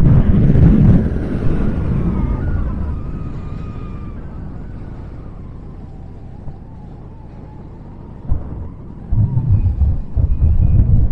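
Freight train rumbling past and dying away, with faint thin squealing tones that slide slightly down in pitch. Wind gusts buffet the microphone from about eight seconds in.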